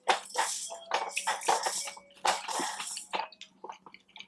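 Close-miked wet eating sounds: chewing and smacking on butter-sauce-coated food in irregular squelching bursts.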